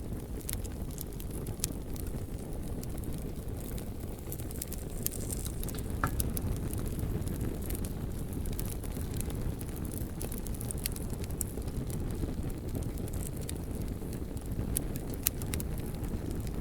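Campfire crackling: frequent sharp snaps and pops, a few louder than the rest, over a steady low rumble.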